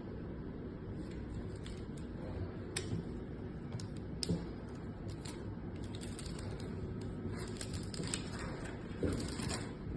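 Spiral plastic support core being pulled out of a cold shrink end cap, unwinding with faint scattered clicks and small crackling ticks that grow thicker in the second half, as the rubber cap shrinks down onto the cable.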